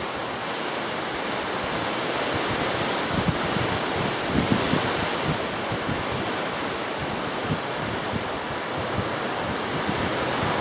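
Strong gusty wind rushing steadily and buffeting the microphone with irregular low thumps.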